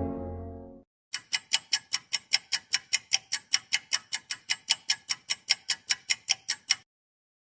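Clock ticking sound effect: a fast, even run of sharp ticks, about five a second, that stops abruptly near the end. In the first second the tail of a low foghorn-like blast fades out.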